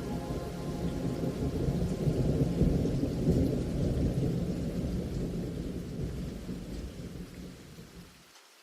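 Rain with a long roll of thunder: the low rumble swells a couple of seconds in, then fades steadily and dies away shortly before the end.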